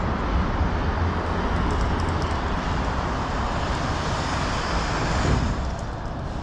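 Electric commuter train running: a steady low rumble with rushing noise.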